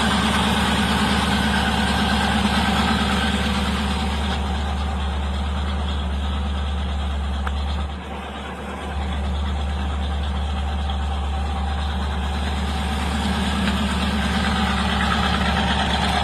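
A hot rod's 350ci Chevrolet V8 idling steadily. The level dips for about a second halfway through.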